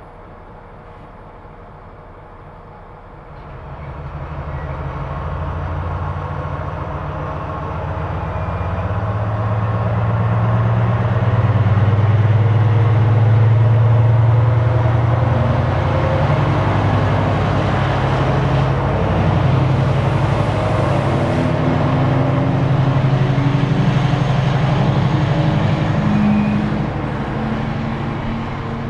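Freight train passing through the station: a low, steady drone builds from about three and a half seconds in, is loudest around the middle, and carries on as a steady rumble.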